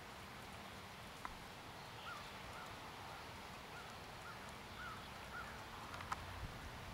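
Faint outdoor ambience in which a bird calls a series of short, repeated rising-and-falling notes, about two a second, from about two seconds in until shortly before the end. There are a couple of sharp clicks, one about a second in and one near the end.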